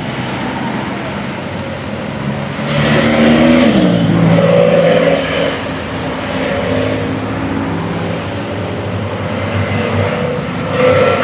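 A car engine running close by with a steady drone. About three seconds in it gets louder and its pitch slides down, then it settles into a steady note.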